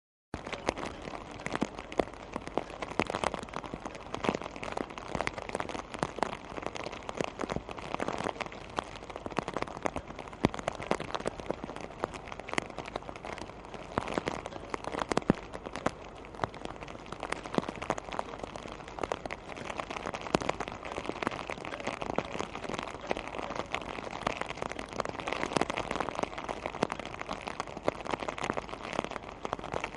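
Rain from Hurricane Irene falling steadily, with a dense scatter of sharp clicks from drops striking close by.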